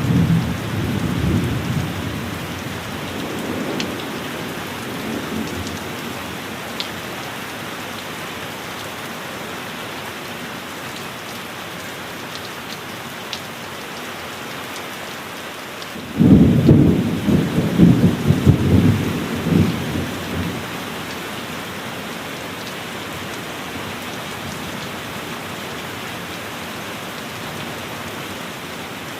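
Thunderstorm: steady heavy rain throughout, with a low thunder rumble fading out over the first few seconds and a sudden loud clap of thunder about sixteen seconds in that rolls for around four seconds.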